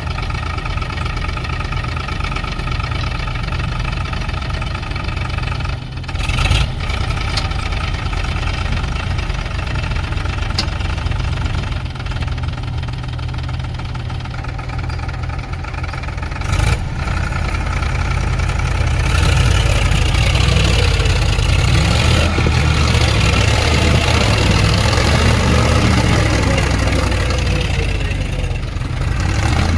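Heavy diesel engine running steadily, then growing louder and rougher about two-thirds of the way in. Two short knocks sound along the way.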